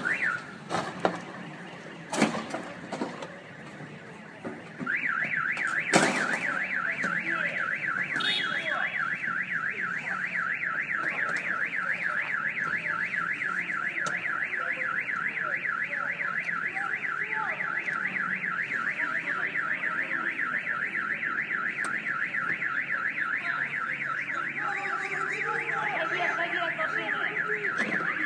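A few sharp knocks, then about five seconds in a car alarm starts up: a loud, fast warbling wail that swoops up and down a few times a second and keeps going.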